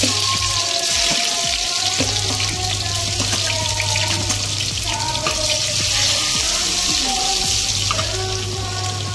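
Chopped garlic frying in hot oil in a kadai: a steady sizzle that jumps up as the garlic goes in and holds throughout. A music track plays underneath.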